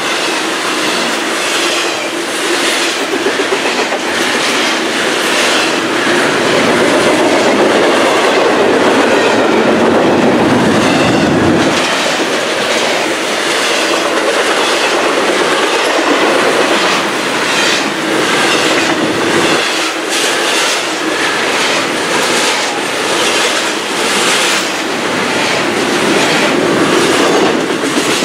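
Loud, steady rumble of a passing intermodal freight train's double-stack well cars, with repeated clickety-clack as the wheel sets cross rail joints.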